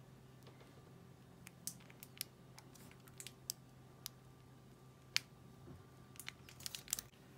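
Scattered small, sharp clicks and taps of objects being handled by hand, with a short flurry near the end, over a steady low hum.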